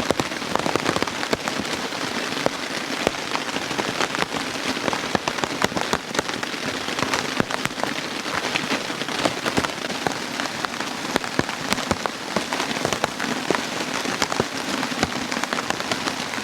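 Steady rain falling on a camping tarp, with many sharp individual drop hits throughout.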